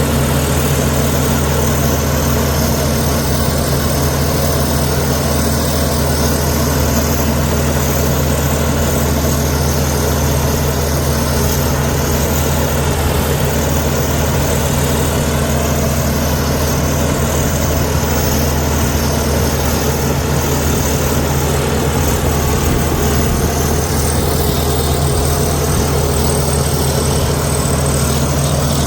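Heavy diesel engine of a Komatsu D61EX bulldozer running at a steady speed, a constant deep drone with no clear revving or knocks.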